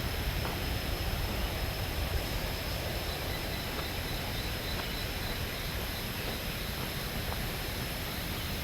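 Steady rushing of a waterfall, an even wash of noise heavy in the low end, with a faint high steady tone above it.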